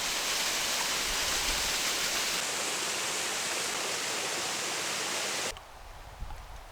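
Rushing water of a waterfall, a steady loud hiss, that cuts off abruptly about five and a half seconds in, leaving a quieter low rumble with a few faint clicks.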